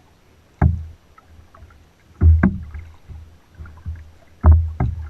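Kayak being paddled: sharp knocks with low, hollow thuds, about five in all, some in quick pairs, as the paddle strokes and bumps against the boat.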